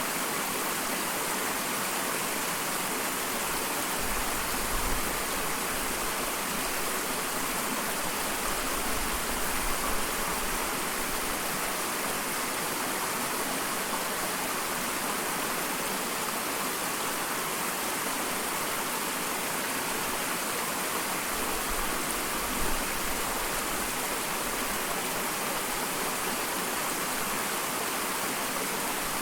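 Small waterfall splashing steadily, a continuous hiss of falling water with a few low rumbling swells.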